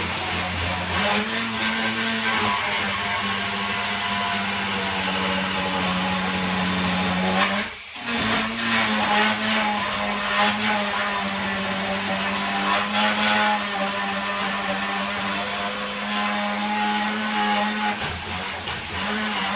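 Battery-powered mini chainsaw running with a steady electric motor whine. It stops briefly about eight seconds in, then starts again.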